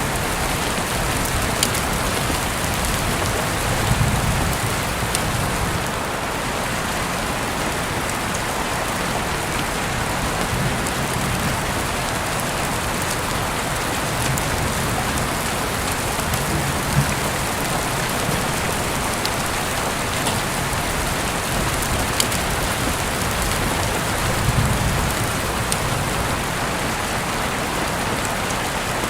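Steady rain falling, a dense even hiss with scattered sharp drip ticks, and a few brief soft low swells.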